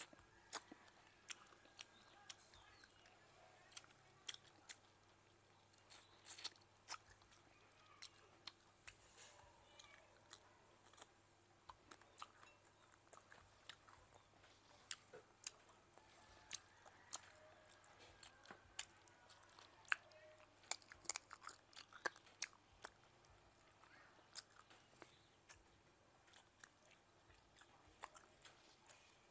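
Close-miked chewing of grilled frog: irregular crunches and mouth clicks, a few each second, with some louder crunches about two-thirds of the way through.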